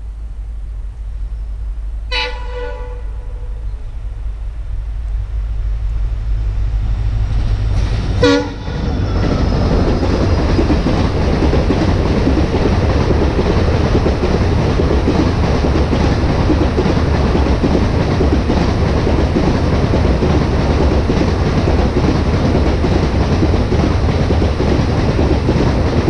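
WDP4D diesel locomotive approaching with its engine rumble building, sounding its horn about two seconds in and again in a short blast as it passes, about eight seconds in. Its passenger coaches then roll past close by in a loud, steady clatter of wheels on rail.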